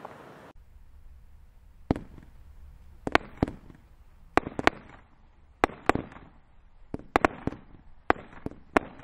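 Fireworks battery firing 20 mm shots: about fifteen sharp bangs going off irregularly, often two or three in quick succession.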